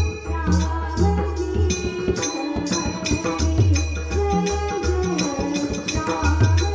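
Instrumental passage of a Marathi bhajan: a steady beat of deep hand-drum strokes with jingling small cymbals over a held, sustained melody line.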